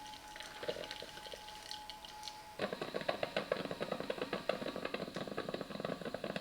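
Parkside PKMA 20-Li A1 cordless drip coffee machine brewing: a faint steady whine with a few light drips, then, about two and a half seconds in, a rapid crackling, sputtering patter as hot water spurts through into the jug.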